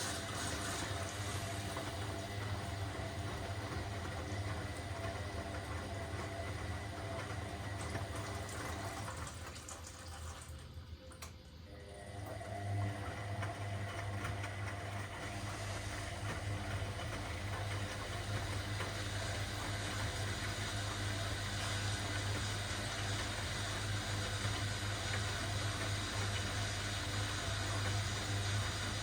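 Washing machine running early in its cycle: a steady motor hum under the sound of water moving in the drum. The sound dips briefly about ten seconds in, then the hum comes back stronger.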